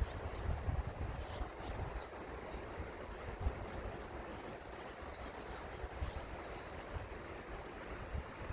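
Seomjin River water flowing in a steady rushing hiss, with wind buffeting the microphone in low gusty rumbles. Faint high chirps come and go throughout.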